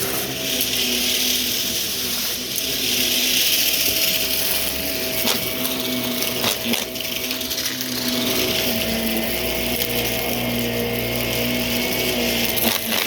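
A clogged vacuum cleaner running with its brushroll spinning: a steady motor whine under a hiss of airflow that swells and fades as it moves, with a few sharp clicks of debris being picked up.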